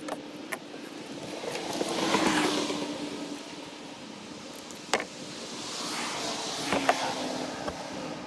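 Two vehicles passing by one after the other, each swelling up and fading away over a couple of seconds, with a faint steady hum underneath and a few sharp clicks.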